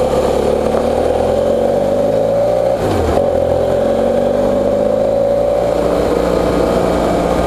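BMW F800GS parallel-twin engine running while the motorcycle is ridden. Its pitch climbs gently for the first couple of seconds, dips briefly about three seconds in, then holds nearly steady.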